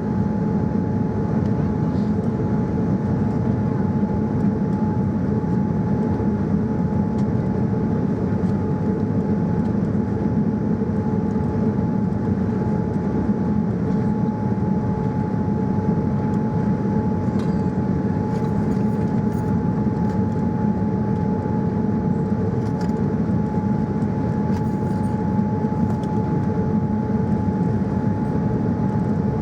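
Steady aircraft cabin noise inside a Boeing 787-9 Dreamliner: an even, unbroken rush of engine and airflow noise with two steady hums, one higher and one lower, running underneath.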